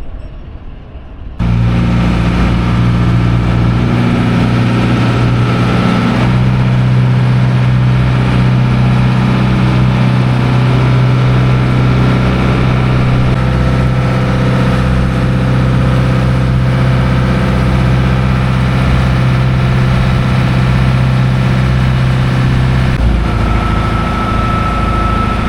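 Small ferry's engine running steadily with a deep, even hum. It starts abruptly about a second and a half in, and its note shifts slightly a few seconds later.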